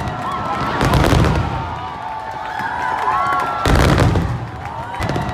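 Aerial fireworks bursting: a heavy boom about a second in and another near four seconds, with crackling and rumbling between.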